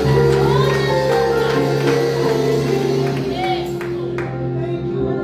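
Church worship music: long held chords on a keyboard, changing about three seconds in, with short snatches of voices singing or calling out over them.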